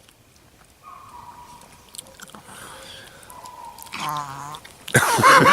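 A dog vocalizing: a thin, steady high whine, then a short lower groan about four seconds in. Loud laughter and voices break in near the end.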